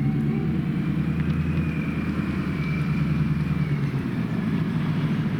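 Car engine running steadily, a low rumble with a faint high whine over it that fades out about four seconds in.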